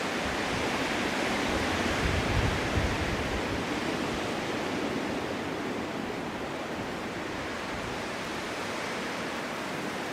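Snowstorm wind blowing with a steady rushing hiss. It swells into a gust with a low rumble about two seconds in, then eases back.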